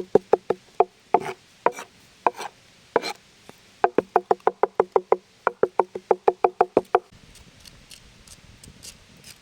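Knife chopping on a wooden cutting board: quick, sharp knocks in runs of about six a second, with a pause between runs. The chopping stops about seven seconds in.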